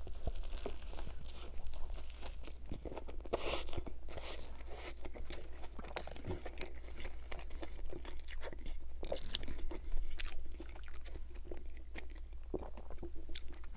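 A bite into a McDonald's Big Mac, then close-miked chewing with irregular crunches.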